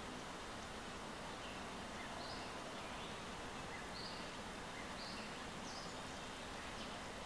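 Steady background hiss with short, high bird chirps repeating roughly once a second.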